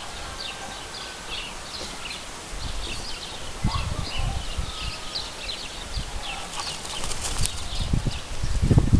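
Small birds chirping, many short high chirps in quick succession. Near the end, a low rumble of wind on the microphone.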